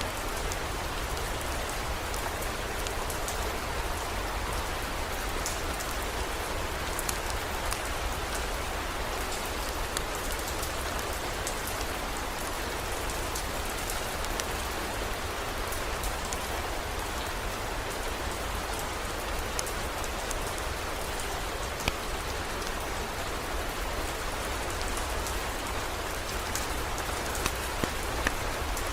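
Steady heavy rain, an even hiss with scattered sharp ticks of individual drops, over a constant low rumble.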